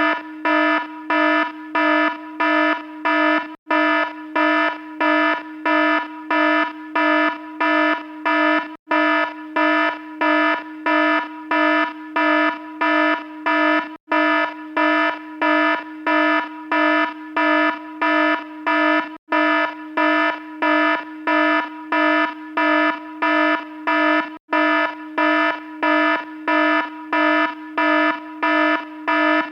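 An electronic alarm beeping steadily at about two harsh, buzzy pulses a second. There is a brief gap in the sound every five seconds or so.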